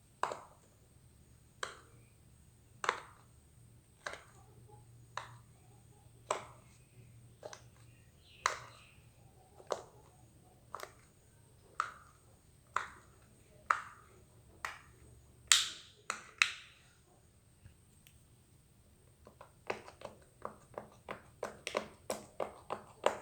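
Silicone pop-it fidget toy bubbles being pressed one at a time, each giving a short sharp pop, about one a second. After a brief pause near the end, a quicker run of pops, several a second.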